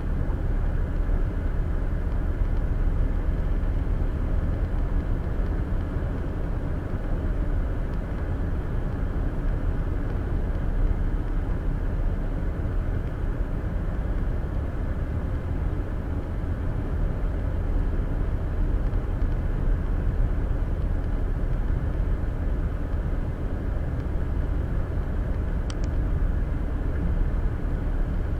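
Steady road and tyre noise with engine hum inside a car cruising at highway speed, picked up by a windshield-mounted Viofo A119 dash cam.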